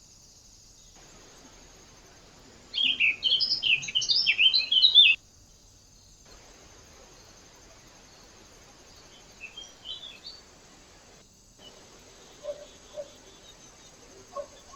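A small songbird chirping in a fast run of high notes for about two seconds, a few seconds in, with fainter chirps around ten seconds. A steady high electronic whine from the trail camera runs underneath, and a few faint taps come near the end.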